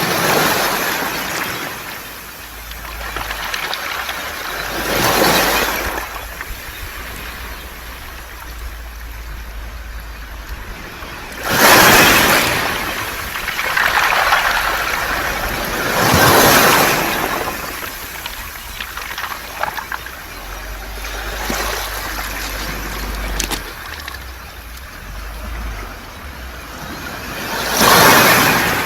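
Waves washing onto a pebble beach, surging every few seconds, with the smooth round stones rattling and hissing as the water draws back between surges.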